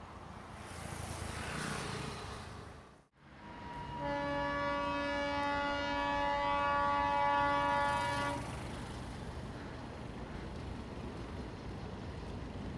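Sri Lankan diesel train's horn sounding one long, steady, multi-toned blast of about four seconds, over the rumble of the train running along the track. The rumble builds for the first few seconds and breaks off in a short edit before the horn starts.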